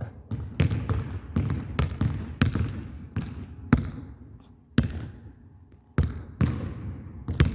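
Basketballs bouncing on a gymnasium floor: a dozen or so sharp, irregular bounces, each echoing in the hall.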